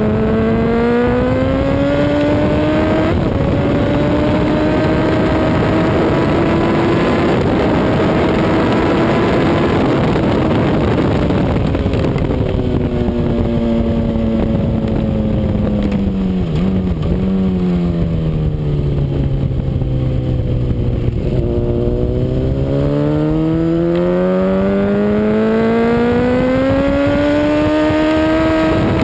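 Honda CBR RR sport bike's inline-four engine pulling hard under heavy wind rush, heard from on board at speed. The engine note climbs, drops at a gearshift about three seconds in, holds, then falls away through a long slowdown from about twelve seconds before climbing steadily again to the end.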